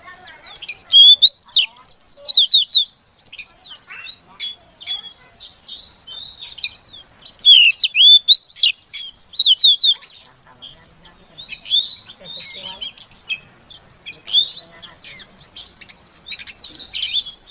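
Oriental magpie-robin (kacer), given as a female, calling in rapid runs of varied high chirps and whistles. The bursts are loudest about a second in and again around the middle. This is a call used to lure male magpie-robins into singing.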